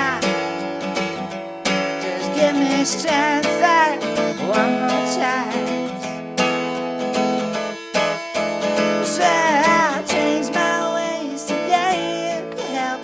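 Instrumental break of an acoustic blues song: strummed acoustic guitar chords under a lead melody line that bends and wavers in pitch.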